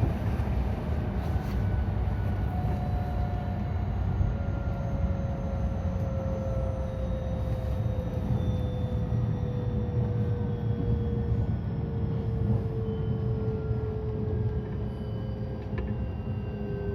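JR West 223 series 2000 electric train running over a steady low rumble, its motor whine slowly falling in pitch as the train slows.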